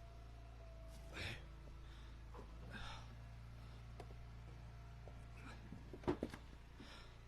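A man's faint breaths over a low steady hum, with a couple of soft rustles and a short sharp knock about six seconds in.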